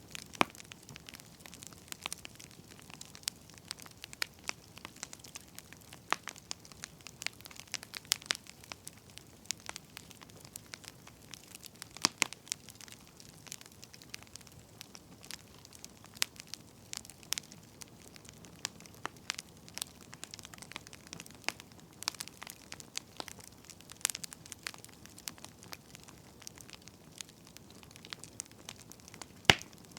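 Wood fire crackling: irregular sharp pops and snaps from burning firewood over a faint steady hiss.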